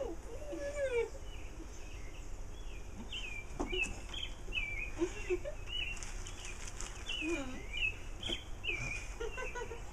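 Songbirds chirping, a quick string of short rising and falling calls that runs through most of the stretch. A few muffled voice sounds from mouths stuffed with marshmallows come near the start and near the end.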